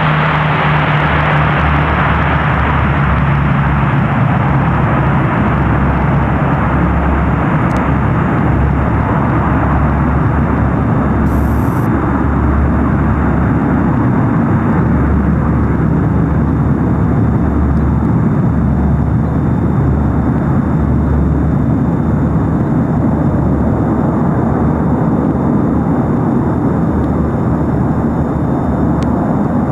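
Antonov An-22's four NK-12 turboprops with contra-rotating propellers, giving a loud, continuous low hum with a pulsing throb underneath. The sound slowly grows duller as its higher part fades away.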